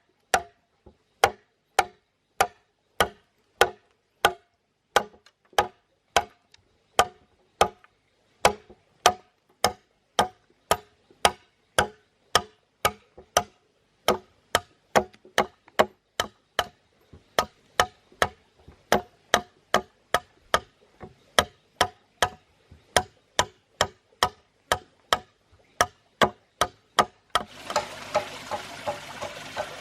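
Evenly spaced sharp knocks, nearly two a second, each with a brief hollow ring. Near the end a steady rushing noise starts under them.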